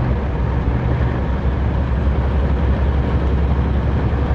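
Semi-truck diesel engine running steadily, a low drone with road noise heard from inside the cab.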